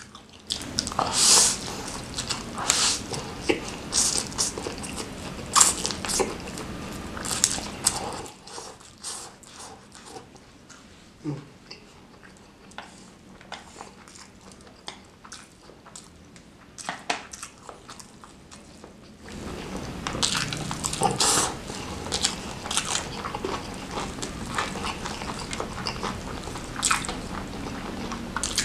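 Close-miked chewing of fried noodles and smashed fried chicken: wet mouth clicks and bites coming quickly and irregularly. It goes quieter for a stretch in the middle and becomes louder and busier again about two-thirds of the way through.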